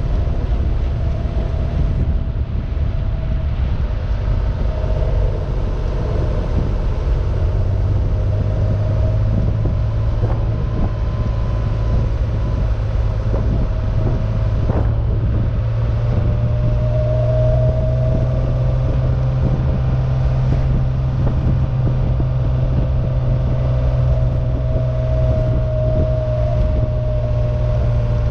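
The 2.7-litre twin-plug air-cooled flat-six of a converted 1972 Porsche 914-6 running at a steady cruise, heard from the open-top cabin with wind rushing past. The engine's low drone grows stronger about eight seconds in.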